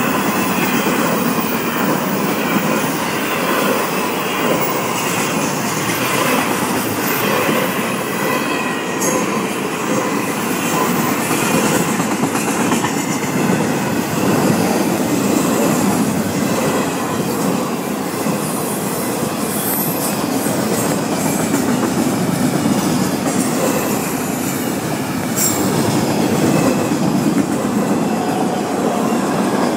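Long intermodal freight train's container and trailer cars rolling past close by: a steady, loud noise of steel wheels running on the rails, with occasional sharp clicks.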